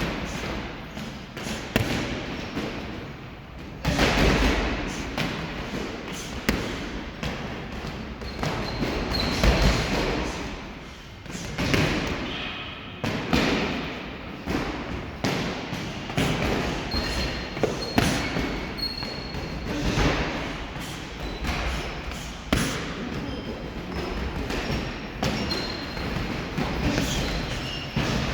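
Boxing gloves thudding on pads and bags in a training hall, many irregular punches overlapping, with a few short high squeaks.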